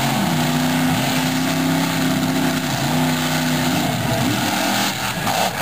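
Monster truck engine revving in waves: the pitch climbs, holds for a second or two and drops, about three times over.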